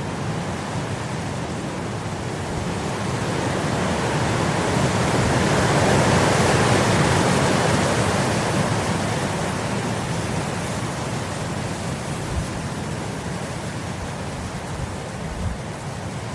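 Wind blowing across grass. It is a steady rushing noise that swells in a gust about six seconds in and then dies back down.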